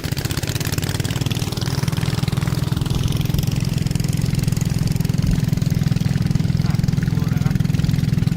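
Boat engine running steadily at an even, pulsing beat, growing slightly louder over the first couple of seconds.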